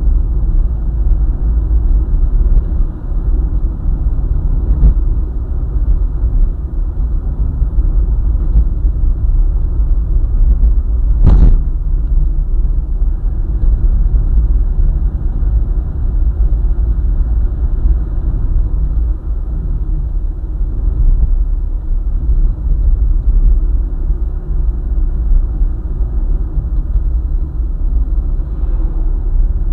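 Steady low rumble of a vehicle driving on a highway, engine and tyre noise together, with one sharp knock about eleven seconds in and a fainter one around five seconds.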